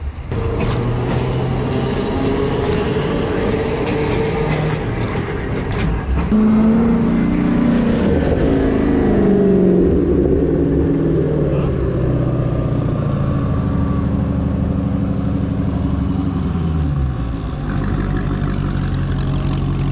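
Motor vehicles in city traffic: engines rising and falling in pitch as they rev or pass, over a steady low rumble.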